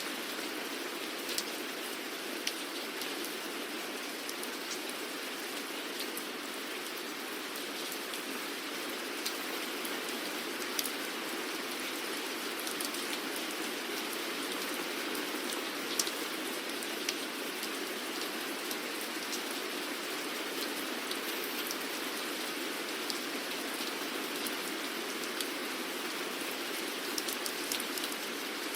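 Steady rain falling, an even hiss with scattered sharp drips and drop impacts standing out here and there.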